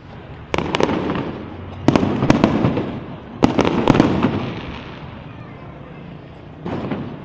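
Aerial firework shells bursting overhead: quick groups of two or three sharp bangs, each group followed by a rolling echo, three groups in the first four seconds and one more bang near the end.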